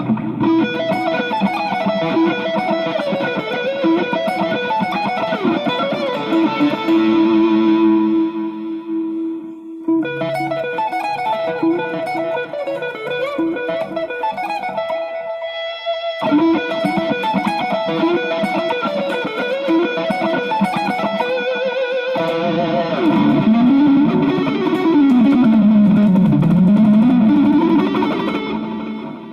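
Electric guitar with a treble bleed circuit on its volume pot and an Orange Drop tone capacitor, played through effects: melodic lead lines with string bends, pausing briefly about ten and sixteen seconds in and dying away at the very end.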